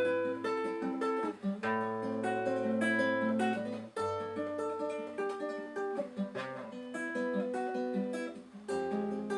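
Acoustic guitar playing an instrumental passage between sung verses, with a run of plucked notes over long held low bass notes.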